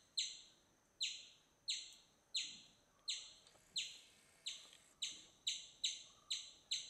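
A bird repeating a short, sharp high chirp over and over, roughly twice a second at an uneven pace.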